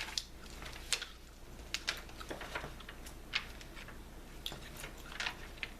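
Close-miked bubblegum chewing: scattered sharp, wet clicks and smacks at an uneven pace, one or two a second.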